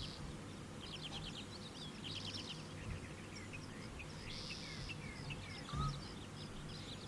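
Faint birdsong over quiet outdoor ambience: many short, high chirps and a few brief trills. A soft low thump comes near the end.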